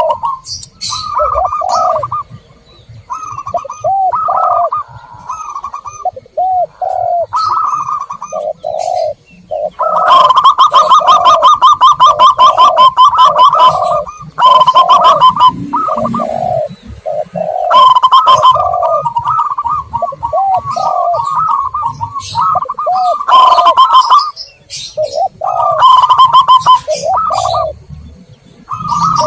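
Zebra doves and spotted doves cooing in repeated phrases, with a fast run of rapid notes in the middle: a dove lure (pancingan) recording meant to call in wild perkutut and terkukur.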